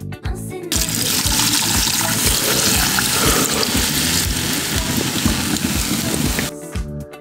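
A loud, steady hiss that starts suddenly about a second in and cuts off near the end, with background music and its beat running underneath.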